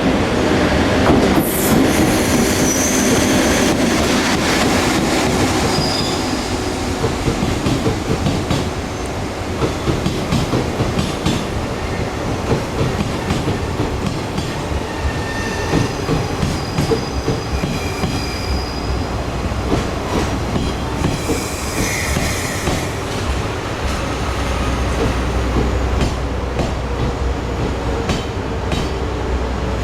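A train rolling slowly through a station. Its wheels give short high-pitched squeals, strongest around the middle, over a steady rumble and scattered clicks from the rail joints. The low rumble grows heavier near the end.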